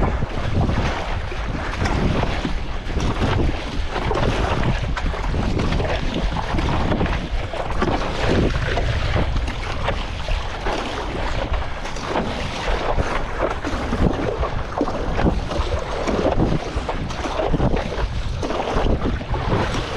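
Strong wind buffeting the microphone over choppy sea water splashing and slapping around a stand-up paddleboard, in steady gusts with no pauses.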